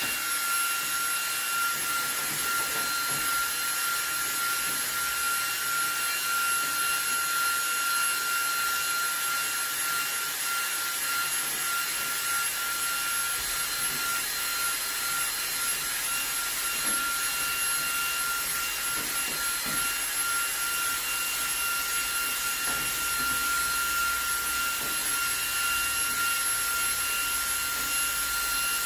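eufy HomeVac H30 Mate cordless handheld vacuum running steadily with a high motor whine over its suction hiss, its brush attachment working on a return air vent.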